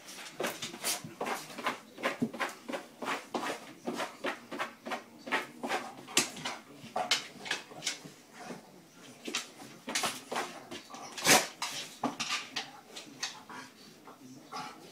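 A golden retriever scrabbling and rolling on a doormat over a wooden floor: many irregular clicks and scrapes of claws and body, with one loudest knock about eleven seconds in.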